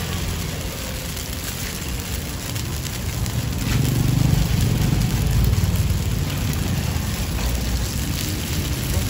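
Crispy rice pancake batter sizzling in the cups of a cast-iron mould over a wood fire. A low rumble swells from about four seconds in and eases off toward the end.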